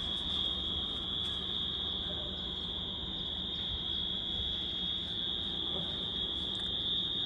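Steady, high-pitched, unbroken chorus of insects trilling.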